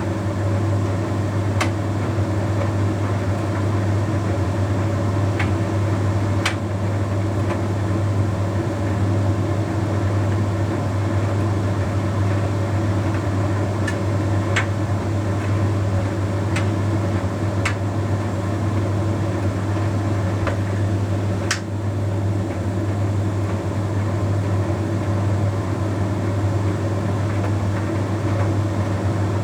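Bosch Series 6 heat pump tumble dryer running mid-cycle: a steady low hum from its motor and heat pump as the drum turns. Occasional sharp clicks sound over the hum.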